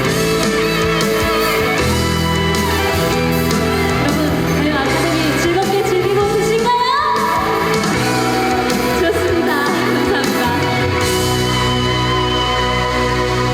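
A female singer performing a trot song live with full musical accompaniment in a hall. Her voice slides upward about halfway through.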